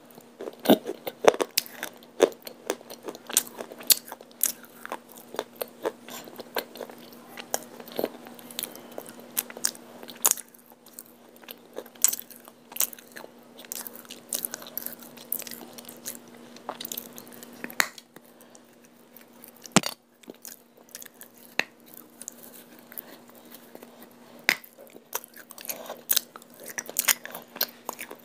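Close-up crunchy biting and chewing of a hard, dry white chalky chunk: irregular sharp cracks and crumbling, coming thick and fast, with a sparser stretch past the middle.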